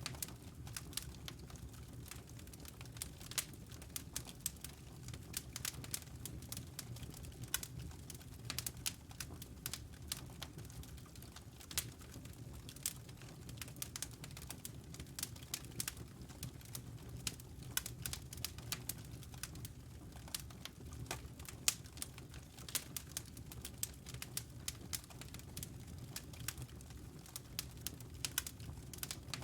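Wood fire crackling in a fireplace: frequent irregular pops and snaps over a low steady hum.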